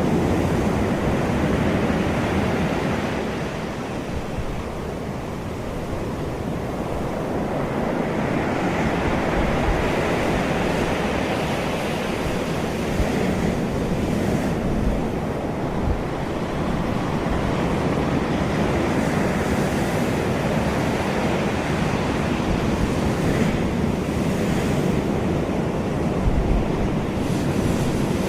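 Ocean surf washing in a steady rush that swells and eases, with wind buffeting the microphone in occasional stronger gusts.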